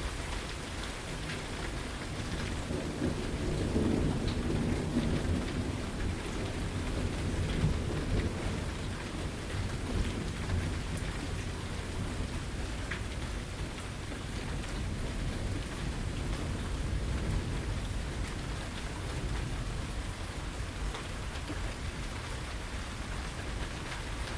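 Steady rain falling, with a roll of thunder that swells a couple of seconds in and rumbles low for about ten seconds before fading.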